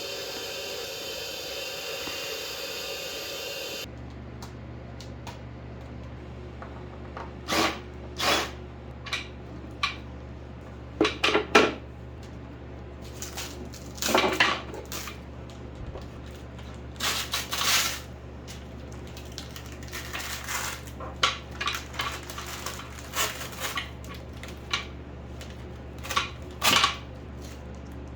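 Hard objects being handled and set down, with scattered clinks and knocks over a steady low hum. It opens with about four seconds of steady hissing that cuts off suddenly.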